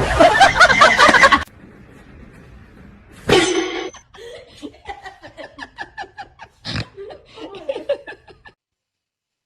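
Laughter in short repeated bursts, with a loud brief burst of sound about three seconds in. The sound cuts off about a second before the end.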